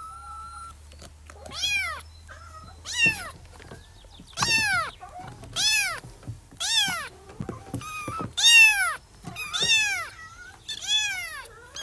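Kitten meowing repeatedly: about eight high mews, each rising then falling in pitch, spaced roughly a second or so apart.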